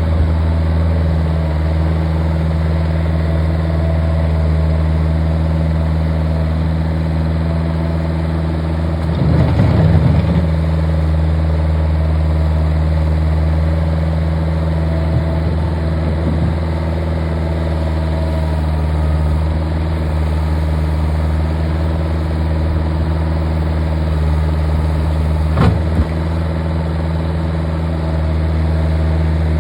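Bobcat's engine running steadily. A louder crunching burst comes about nine seconds in, and a single sharp knock near the end.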